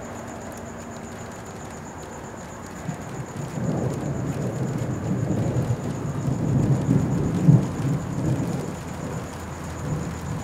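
Thunder rumbling: a low rumble builds about three seconds in, swells to its loudest near the middle, and slowly eases off.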